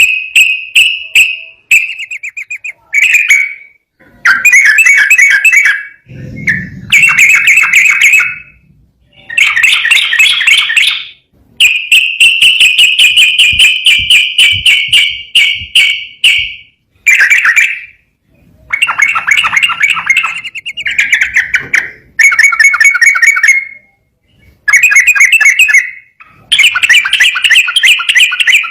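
Yellow-vented bulbul (trucukan) singing loudly: bursts of rapid, bubbly notes repeated phrase after phrase with short pauses, including one long unbroken run of about five seconds midway.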